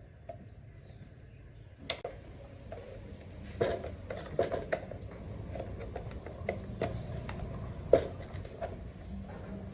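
Irregular sharp clicks and knocks, a dozen or so spread over several seconds and the loudest near the end, over a low steady hum.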